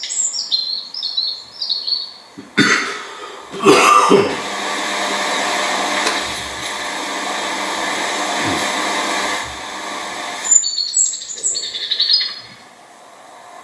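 White-browed tit-warbler calling in quick runs of high chirps at the start and again near the end. In between come a couple of thumps and then several seconds of steady rushing noise, louder than the bird.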